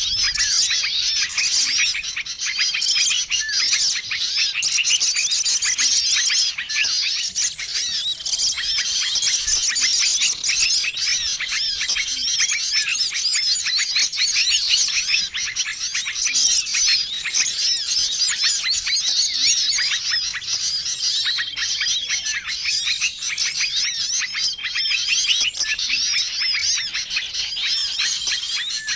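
Dense, busy chorus of many small songbirds chirping and trilling at once: a mixed bird-lure recording used to draw in wild small birds. A short, level whistled note recurs every couple of seconds beneath the rapid chatter.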